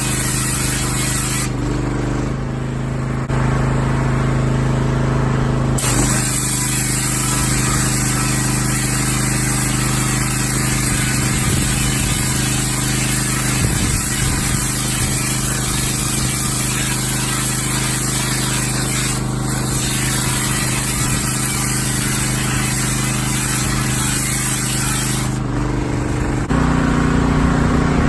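Pressure washer running with a wet sandblasting attachment, blasting sand and water at rusted metal in a steady hiss over the machine's hum. The spray stops twice, for about four seconds early on and briefly near the end, while the pump keeps running.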